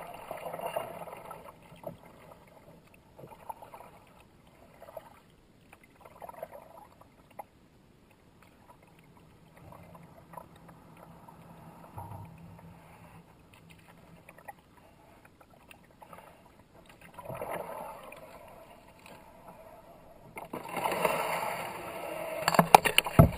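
Kayak paddle strokes splashing in fast river water, coming and going irregularly with a quieter stretch in the middle. It grows louder in the last few seconds, with a few sharp knocks near the end.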